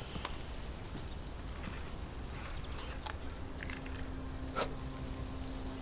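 Birds chirping: a quick series of short, high, arched notes over a quiet outdoor background, with a few faint clicks and a low steady hum coming in about halfway.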